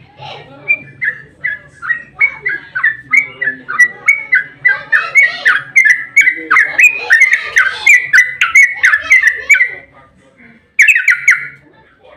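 Yellow-vented bulbul (trucukan) singing a long, fast run of short chattering notes, several a second. It breaks off briefly near the ten-second mark, then a short burst follows.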